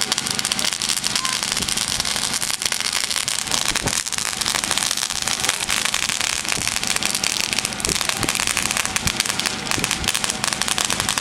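Consumer firework fountain spraying and crackling: a steady dense hiss of tiny pops, with a few louder pops about four and eight seconds in.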